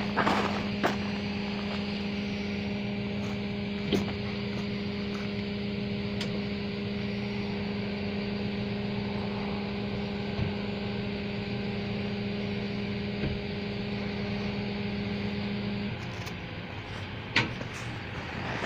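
Tow truck engine running steadily, with a steady hum that cuts off about sixteen seconds in, and a few light knocks.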